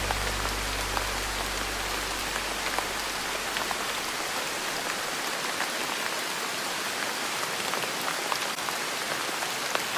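Steady rain falling on a surface, with scattered drop taps. A low sustained music note fades out over the first few seconds.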